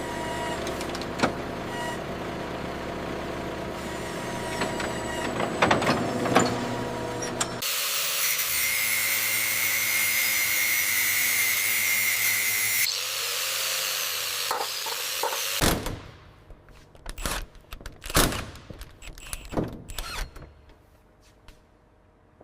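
A run of workshop tool sounds. First a motor runs steadily with sharp clicks over it. Then comes about five seconds of loud hissing with a high whine, a motor again, and from about 16 seconds in, scattered knocks and clicks of hand work on metal.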